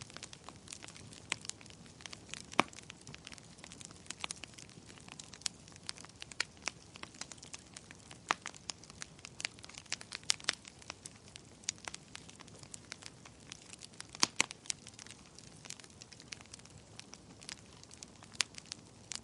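Fire crackling: irregular sharp pops and snaps over a faint steady hiss, with a few louder pops about two and a half seconds in and again about two-thirds of the way through.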